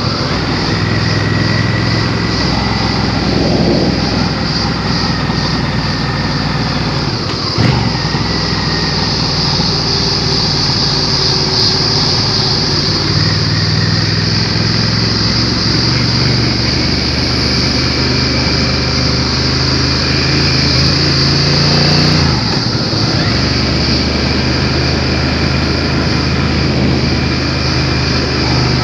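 Motorcycle engine running on the road at speed, with a steady rush of wind noise. The engine note breaks and changes pitch briefly twice, about a quarter of the way in and again past two-thirds.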